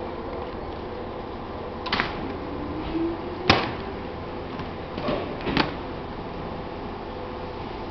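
Keisei 3600-series electric train pulling away with a steady running hum, and four sharp clacks from its wheels on the track, the loudest about three and a half seconds in.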